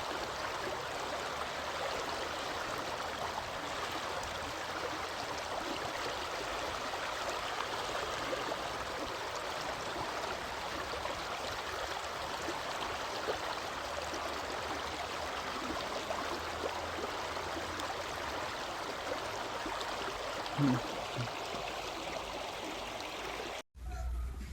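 Steady rushing of running water, like a stream, with a brief low sound about three seconds before the end; it cuts off suddenly near the end.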